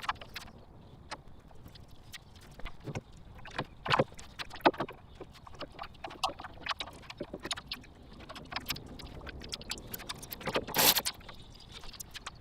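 Dense, irregular clicks, clinks and knocks of hand tools and metal car parts being worked on, sped up with the time-lapse, with a longer clatter near the end.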